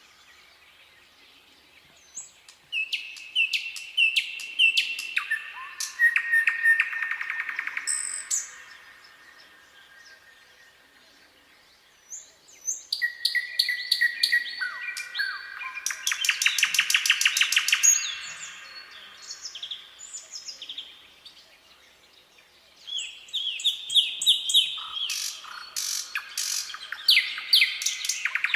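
Nightingale singing: three song phrases of whistles and fast rattling trills of repeated notes, each a few seconds long, separated by short pauses.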